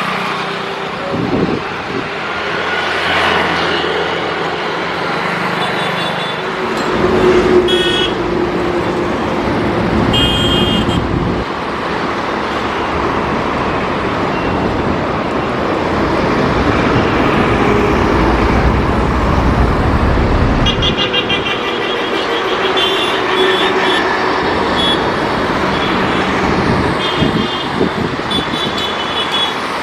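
Road traffic running steadily, with a heavier rumble for several seconds in the middle. Short horn toots come around six to ten seconds in and again repeatedly near the end.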